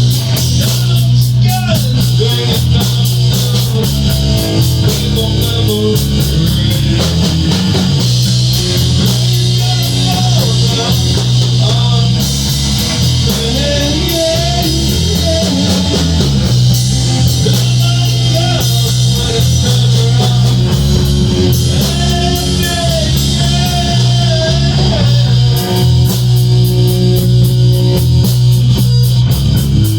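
Rock band playing a song: guitar, bass guitar and drum kit, with a melodic line bending up and down over a steady bass.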